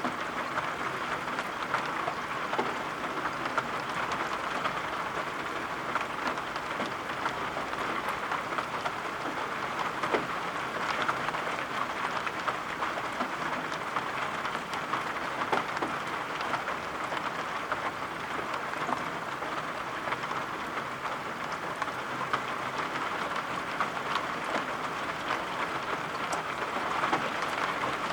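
Steady rain with many small scattered ticks of drops.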